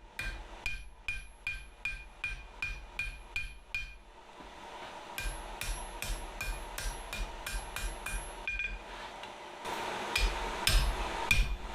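Hand hammer striking steel on an anvil in a quick, even series of blows, about three a second, each with a short metallic ring. The blows pause briefly, start again, and a steady rushing noise comes in near the end.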